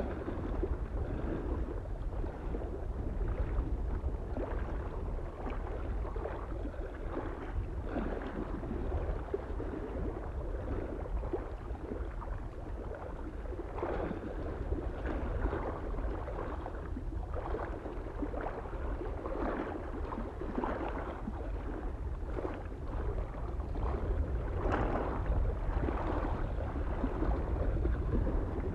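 Small waves lapping at a lake shore in irregular splashes, over a steady low rumble of wind.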